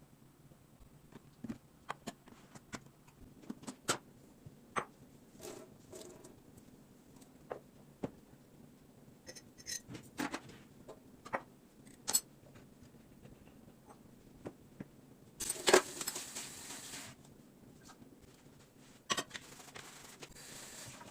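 Light clicks, taps and knocks of small household objects being handled, irregular and scattered, with two longer hissing or rustling stretches, one a little past the middle and one near the end.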